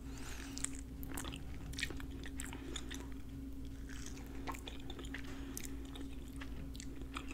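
A person biting lamb chop meat off the bone and chewing it, heard close up as scattered soft mouth clicks and wet chewing noises.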